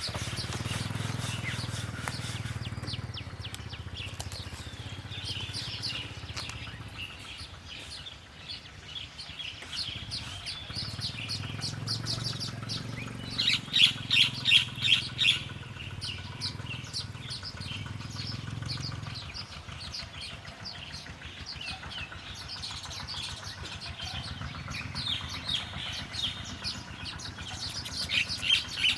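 Small bird chirping repeatedly in quick short notes, with a run of louder chirps about halfway through. A low drone sounds underneath for the first few seconds and again through the middle.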